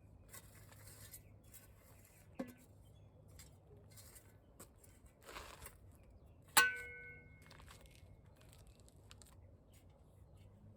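Faint handling and scraping noises, with a small knock a little after two seconds in and one sharp clink about two-thirds of the way through that rings briefly before dying away.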